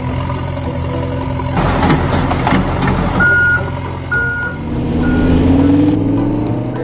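A heavy vehicle's engine running steadily while its reversing alarm beeps three times, about a second apart, midway through.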